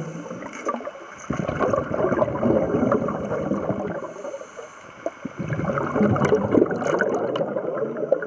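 Scuba divers breathing underwater: bubbly gurgling of exhaled air from the regulators in stretches a few seconds long, with short lulls between them.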